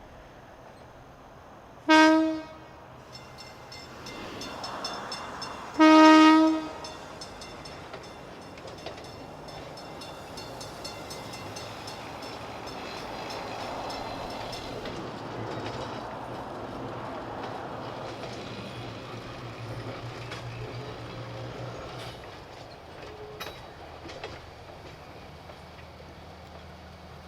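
East Troy Electric Railway train sounding two short horn blasts about four seconds apart, then rolling past with a steady rumble of wheels on the rails and a low hum that swells and fades.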